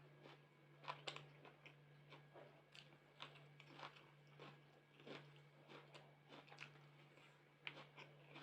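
Faint close-miked chewing and mouth sounds of someone eating, with short wet smacking clicks about two to three a second, over a steady low electrical hum.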